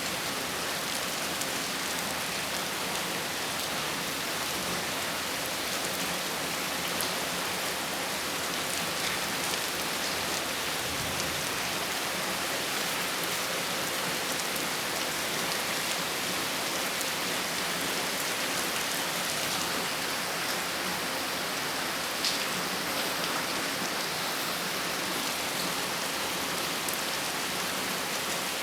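Heavy rain falling steadily during a storm: an even hiss of rain on hard surfaces, with scattered drop ticks.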